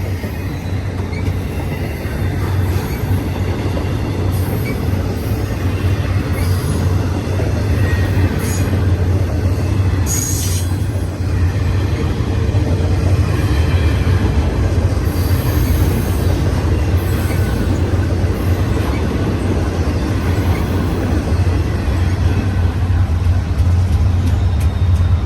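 BNSF double-stack intermodal freight cars rolling past close by, with a steady heavy rumble of steel wheels on rail. There is a brief high-pitched squeal about ten seconds in.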